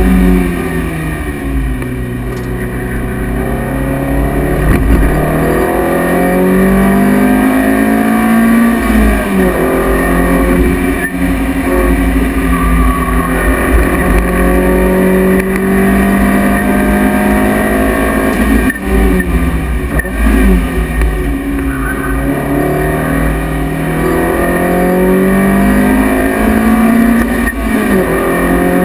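Lotus Elise S1's 1.8-litre Rover K-series four-cylinder engine driven hard on track, heard from inside the cabin. The engine pitch climbs steadily and drops sharply at each gear change, several times over, above a steady rush of wind and tyre noise.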